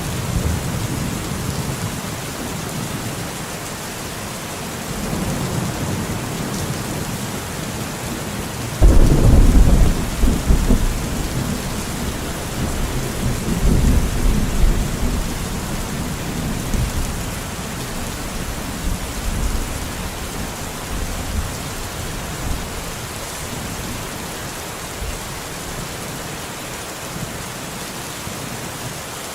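Steady rain falling in a forest, with rolling thunder. A loud rumble of thunder breaks in suddenly about nine seconds in and rolls on for several seconds before fading to weaker rumbles.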